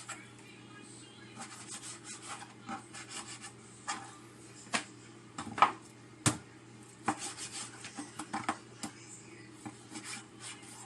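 Meat being handled during jerky preparation: irregular rubbing and scraping with scattered clicks and a few sharp knocks against a board or dish, the loudest about six seconds in.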